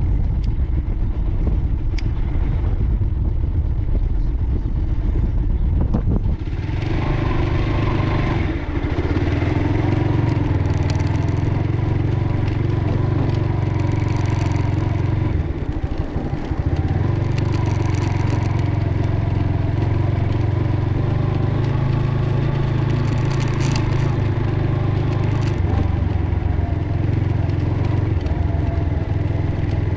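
Motorcycle engine running. A rough noise fills the first six seconds, then the engine hum comes in louder and holds steady, shifting a little every few seconds.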